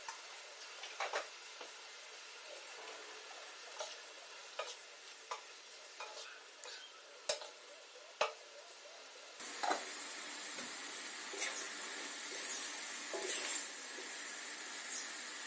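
Cabbage and potatoes sizzling in a wok while a metal spoon stirs them, with scattered clicks and scrapes of the spoon against the pan. About nine seconds in the sizzling becomes suddenly louder and stays so.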